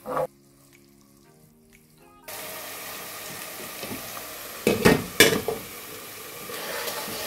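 Ginger, garlic and onion paste frying in hot oil in a cooking pot, a steady sizzling hiss that starts about two seconds in. About five seconds in come two sharp knocks as the pot's glass lid is handled.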